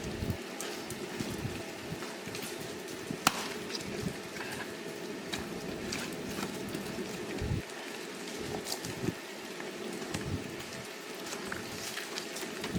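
Fire pit burning under ice-covered trees: scattered sharp crackles and drips over a steady low rushing noise.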